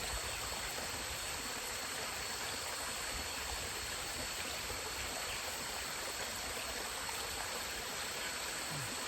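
Stream running strongly, swollen by heavy rain: a steady rushing of water.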